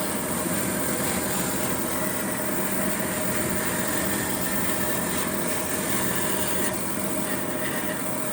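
An electric power tool running steadily on wood, a continuous motor whine under the rasp of the work.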